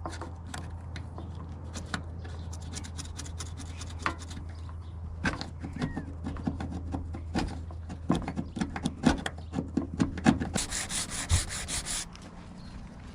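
Hand work on the van body: irregular scraping, rubbing and clicking over a steady low hum. Near the end comes a hiss from an aerosol spray-paint can, lasting about a second and a half.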